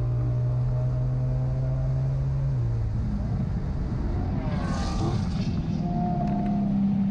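BMW E92 M3's 4.0-litre V8 running at a steady high pitch under full throttle, then lifting off a little under three seconds in. Near the middle there is a short burst of noise with gliding pitches as the car brakes hard from over 100 mph, and the engine then settles at a steady new pitch.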